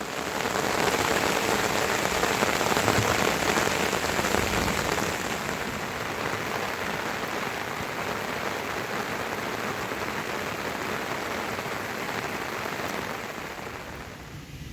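Heavy rain falling, a dense steady hiss that starts suddenly, is heaviest for the first few seconds, then eases a little and fades near the end.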